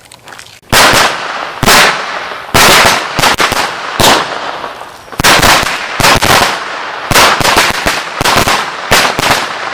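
A string of DOT Red Lantern Supercharged 100s firecrackers going off: a rapid, irregular run of loud bangs starts just under a second in and is still going at the end.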